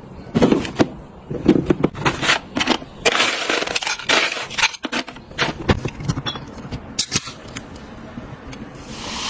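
Containers and food packaging being handled and set down while stocking a fridge: irregular clicks and knocks with short bursts of crinkling.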